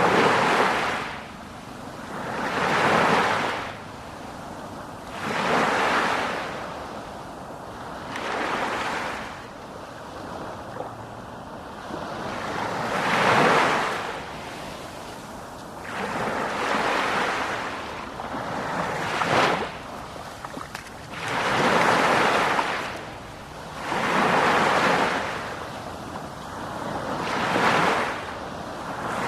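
Sea waves breaking and washing in, one surge every two to three seconds, with a calmer lull about ten to twelve seconds in.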